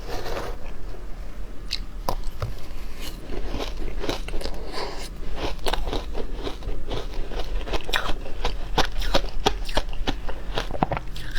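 Matcha ice being bitten and crunched in the mouth: irregular sharp cracks and crunches, coming thicker and faster from about halfway through.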